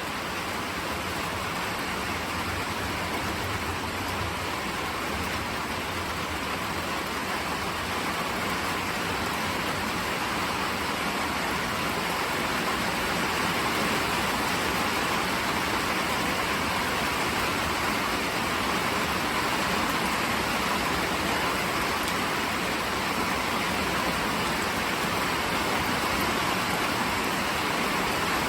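Steady rain falling, a constant hiss that grows a little heavier about halfway through.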